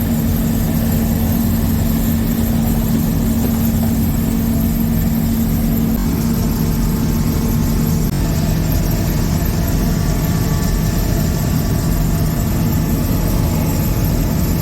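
Diesel engine of harvest machinery running steadily under load, a constant drone with a hum that shifts lower about eight seconds in.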